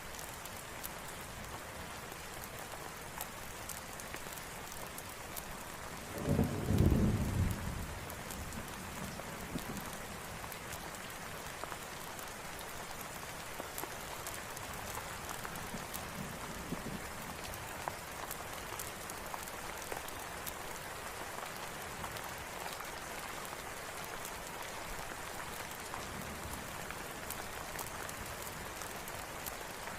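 Steady rain falling, with a low rumble of thunder about six seconds in that lasts about two seconds and is the loudest thing heard; a fainter rumble follows some ten seconds later.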